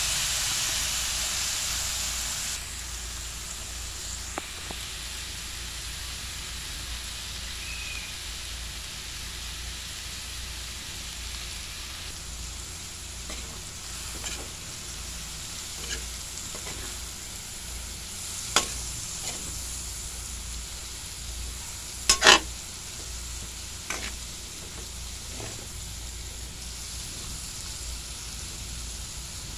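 Vegetables and meat sizzling as they are stir-fried in a wok. The sizzle is louder for the first couple of seconds, then settles to a steady hiss. A metal spatula knocks against the wok now and then, loudest in a double clank about three-quarters of the way through.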